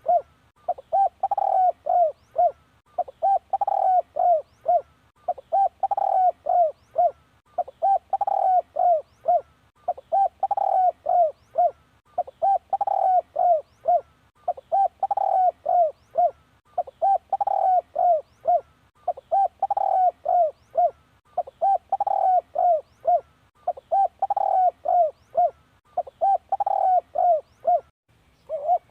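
Spotted dove cooing: a short phrase of a few coo notes, the first one the loudest, repeated about every two seconds. It is a decoy call for luring wild doves.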